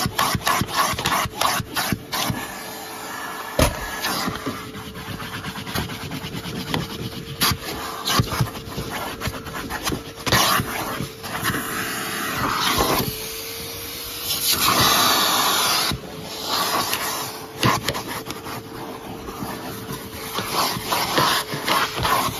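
1997 Numatic Sir Henry vacuum cleaner running with a steady motor whine, its nozzle rubbing and scraping over surfaces with scattered knocks. The whine rises slightly in pitch for a second or so midway.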